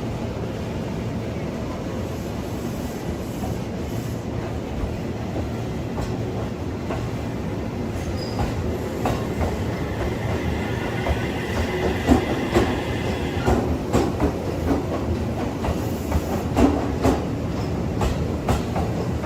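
Train running on rails with a steady low rumble. Past the middle comes a brief wheel squeal, then a run of clicks and knocks from the wheels over rail joints.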